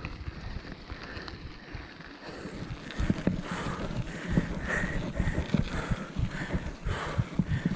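Bicycle riding along a dirt forest trail: the tyres rumble and the bike rattles with many small knocks over the bumpy ground, with wind buffeting the microphone. From about two seconds in, a rough rasping sound repeats about every two-thirds of a second.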